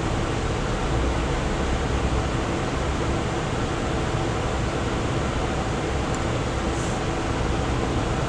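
A steady whirring machine noise, like a fan, with a low steady hum running through it.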